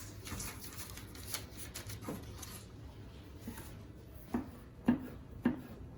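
Kitchen handling sounds: rustling and rubbing for the first couple of seconds, then three short knocks about half a second apart near the end.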